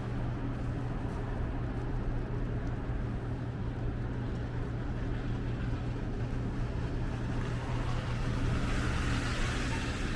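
Steady low hum of a vehicle engine running in city street traffic, with a hiss that swells near the end.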